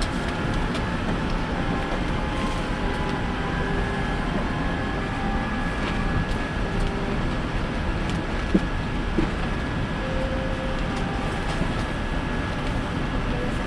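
Steady cabin noise aboard a Boeing 787-9 airliner, an even rush at a constant level, with a couple of small knocks a little past the middle.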